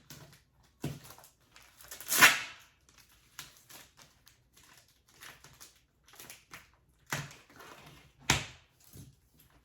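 Tightly sealed package of compressed throw pillows being handled and pulled open: irregular rustling and knocks, with two louder tearing noises, about two seconds in and again near the end.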